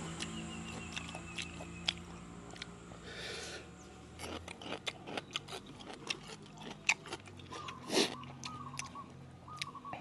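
Close-up chewing and crunching of som tam (spicy papaya salad with seafood and lotus stems), with many sharp, irregular wet mouth clicks. The loudest bite or slurp comes about eight seconds in.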